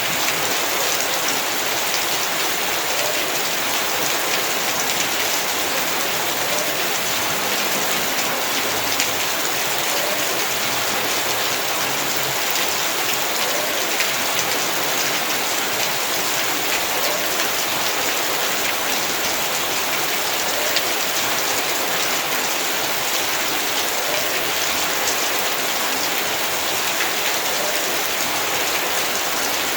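Heavy rain falling steadily, a dense hiss of drops hitting the ground and nearby surfaces with many small individual drop ticks.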